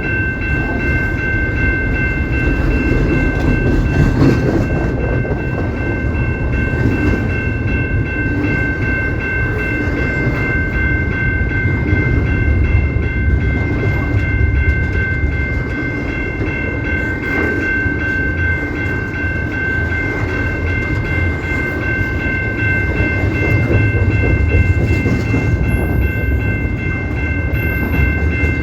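Canadian Pacific train rolling past with a steady low rumble of wheels on track, over a continuous high-pitched ringing made of several steady tones that holds unbroken throughout.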